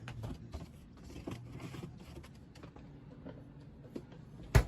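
Handling noises: scattered small clicks and rustles, then one sharp knock near the end, as of something set down hard.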